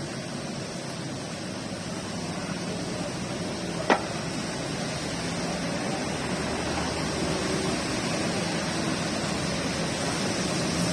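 Steady rain, an even hiss, with one sharp click about four seconds in.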